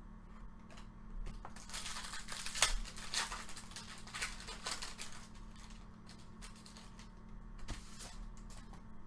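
Trading cards and their pack wrapper being handled: a stretch of crinkling and rustling with sharp little clicks, loudest from about two to five seconds in.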